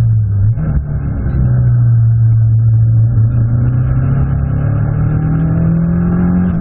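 Abarth 500 Assetto Corsa race car's turbocharged 1.4-litre four-cylinder, heard from inside the stripped, caged cabin, running hard on track. The engine note dips and jumps about half a second in, holds steady, then climbs steadily through the second half as the car accelerates.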